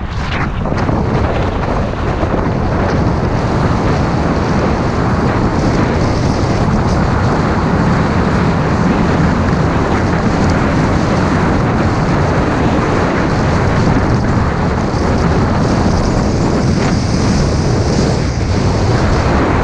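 Wind buffeting the microphone of a camera carried by a skier moving downhill: a loud, steady rush.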